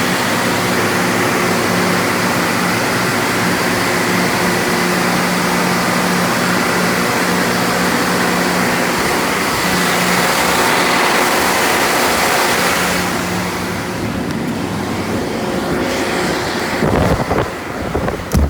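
Storm-force wind blowing hard as a loud, dense rushing, with a steady machine hum underneath. About thirteen seconds in the high hiss eases, and near the end gusts buffet the microphone.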